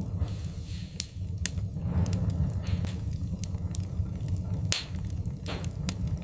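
Wood fire crackling in a fireplace: scattered sharp pops and snaps over a steady low rumble of burning, the loudest pop a little under five seconds in.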